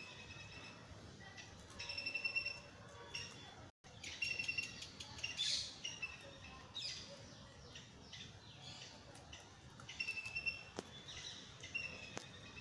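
A small bird chirping repeatedly in short, clear calls that come in several bunches. Soft clicks and crackles run under the chirps as rabbits chew cauliflower leaves.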